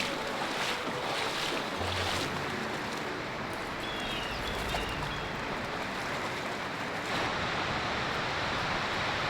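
Steady rushing noise of wind and water, with a few faint high chirps near the middle.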